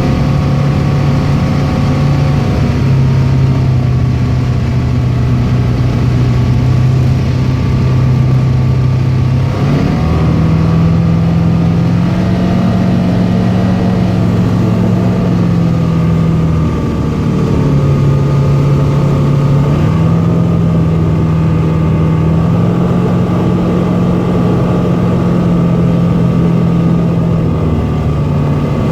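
Tecnam P92 Echo light aircraft's piston engine and propeller running steadily. The engine speed steps up about ten seconds in, drops back around seventeen seconds, and rises again about three seconds later, as power is adjusted during a windy landing approach.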